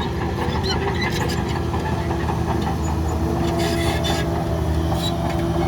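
Heavy diesel engine of earthmoving machinery running steadily, with scattered metallic clanks and rattles over it and a brief rush of hissing noise a little past halfway.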